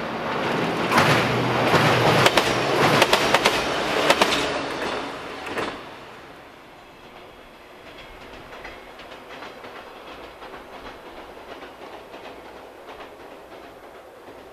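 JR West 115-series electric train passing close on a steel girder bridge, its wheels clattering sharply over rail joints. About six seconds in the sound drops suddenly to the faint, steady rumble of a train crossing a long viaduct far off.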